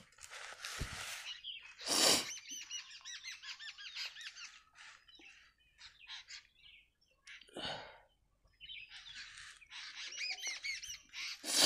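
A small bird chirping in quick runs of short, arched notes. A few brief, louder rustling noises break in, the loudest about two seconds in and near the end.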